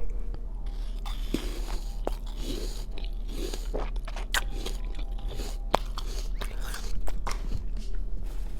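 Close-miked biting and chewing of a chocolate peppermint caramel apple, with many sharp crunches.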